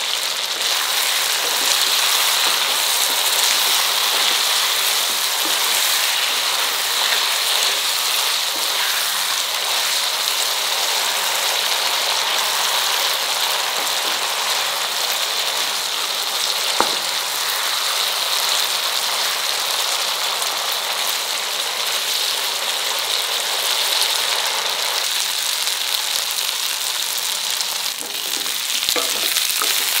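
Chicken pieces sizzling steadily in hot oil and spice masala in a nonstick frying pan. One sharp click about halfway through, and a spatula knocking and scraping in the pan near the end.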